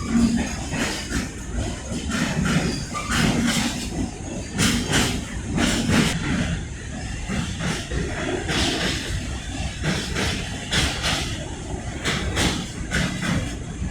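Steel freight train's wagons rolling past, wheels clanking over rail joints and points at irregular intervals above a steady low rumble.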